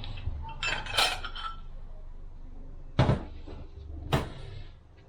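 Metal transmission clutch steels and plates clinking as they are handled and set down: a ringing jangle about a second in, then two sharp clanks about three and four seconds in.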